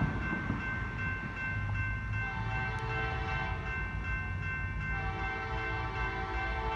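Locomotive air horn, a five-chime Nathan K5LA on a KCS SD70ACe, sounding a held chord whose lower notes come and go, over the low rumble of the diesel locomotives.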